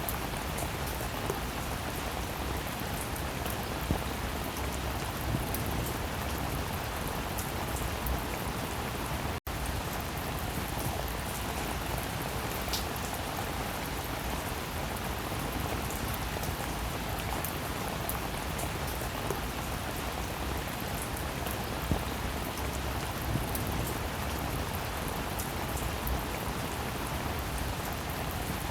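Steady rainfall, an even hiss of drops with scattered louder single drop hits, and a split-second dropout about nine seconds in.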